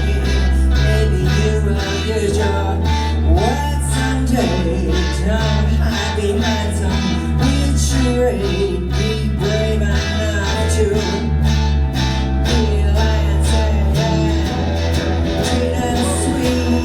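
Live band music: a loud rock song with guitars, heavy bass, drums and a singing voice.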